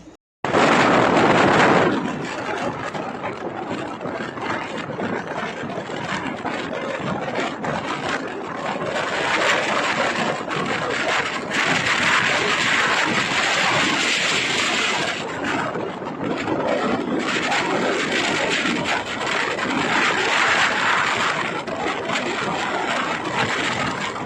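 Steady noise of a moving passenger train, the rumble and rattle of wheels running on the rails. It starts abruptly and is loudest in the first two seconds.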